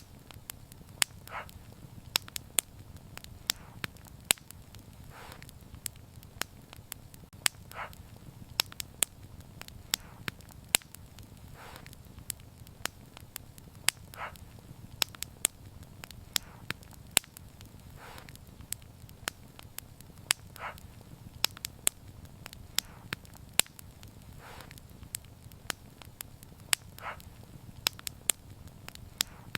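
Wood fire crackling: irregular sharp pops and snaps, several a second at times, over a steady low rumble of the flames.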